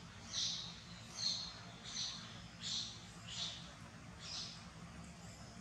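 A bird calling over and over in short high chirps, about one every 0.7 seconds, fading out after about four and a half seconds.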